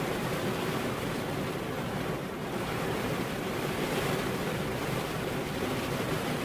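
Steady rain falling, a dense even hiss that holds at about the same level throughout.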